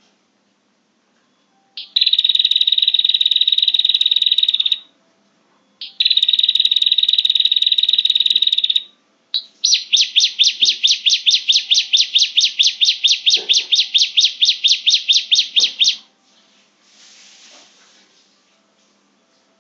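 Recorded prenjak (prinia) call played as a lure: three bouts of rapid, high, buzzy trilling, the first two about three seconds each, the third a longer run of distinct repeated notes at about six or seven a second.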